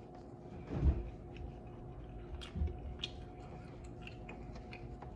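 A person chewing saucy chicken wings with the mouth closed: small wet mouth clicks, with a low thump about a second in and another about two and a half seconds in. A faint steady hum runs underneath.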